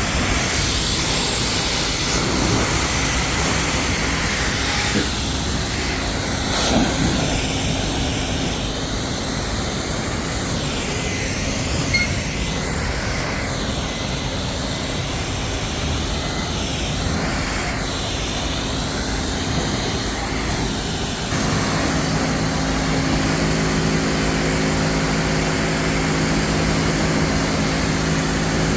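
Coin-operated high-pressure washer spraying water onto a truck: a loud, steady hiss whose tone shifts as the jet is moved. About two-thirds of the way through, the hiss drops away and a steady machine hum comes to the fore.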